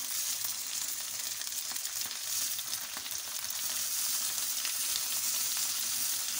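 Chicken liver pieces sizzling in hot oil on an iron tawa as a spatula stirs them: a steady frying sizzle.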